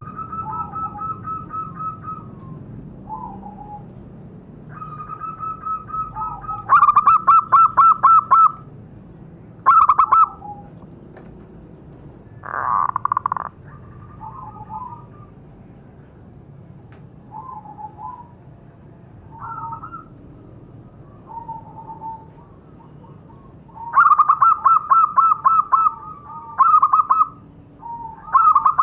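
Zebra doves (perkutut) cooing: clear, high calls broken by two loud runs of fast staccato notes, one about a quarter of the way in and one near the end. A short hoarse burst comes about halfway.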